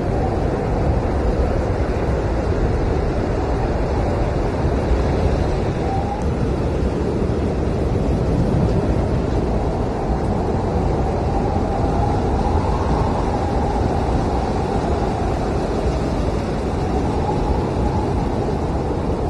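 Blizzard wind blowing hard and steadily in a deep rush, with a faint howling whistle that slowly rises and falls.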